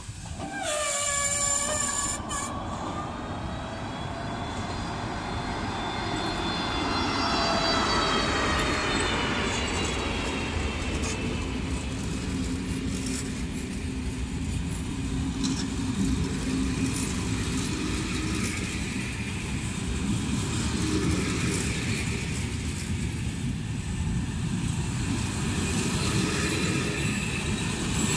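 Czech Railways class 242 electric locomotive passing with a passenger train: a short horn blast about half a second in, then a whine from the locomotive that slowly falls in pitch as it goes by. The coaches follow with a steady rumble of wheels on rail.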